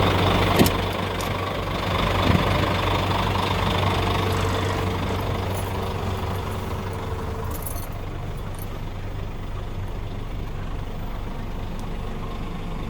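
Scania P410 truck's diesel engine idling steadily, with a couple of sharp clicks near the start and a knock about two seconds in; the sound grows a little quieter in the second half.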